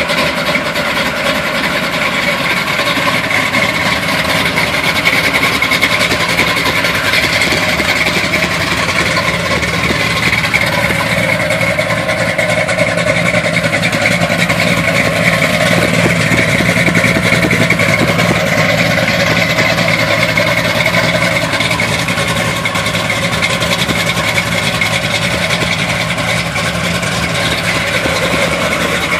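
1971 Chevy K5 Blazer's big-cam small-block V8 idling with a rough, choppy idle, cold from a fresh start. The sound is steady throughout, with no revving.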